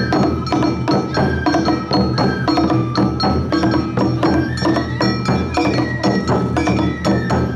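Awa Odori narimono band playing: a kane hand gong clanging in quick strokes over taiko drums, with a shinobue bamboo flute holding long, sliding notes above.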